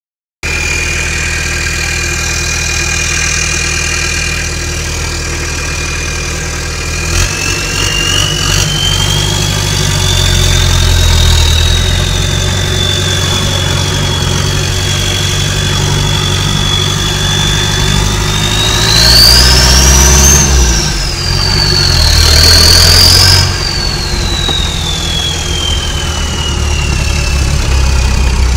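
Turbo diesel engine swapped into a 1985 Toyota 4Runner, idling with a steady high turbo whine, then pulling under load as the whine climbs in pitch. It peaks in two hard pulls about two-thirds of the way through, then falls steadily as the throttle eases off.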